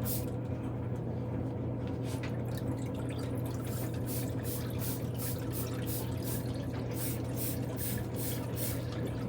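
Trigger spray bottle of spot remover squirting in quick hissy spritzes, about three a second and more densely in the second half, over the steady hum of a running machine.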